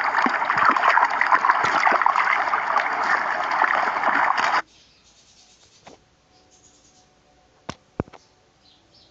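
Water running hard and splashing, then stopping abruptly about four and a half seconds in. Two sharp clicks follow near the end.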